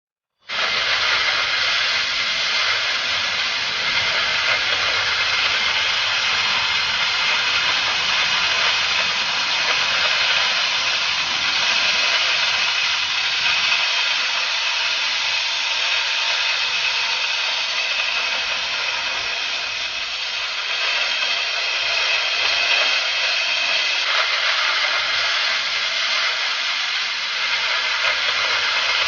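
Oxy-fuel cutting torch of a Huawei HK12 track-type gas cutting carriage giving a loud, steady hiss that starts abruptly about half a second in.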